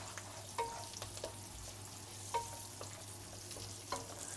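Onion frying in sesame oil in a frying pan, sizzling steadily, with a few short clicks and scrapes of the stirring utensil against the pan.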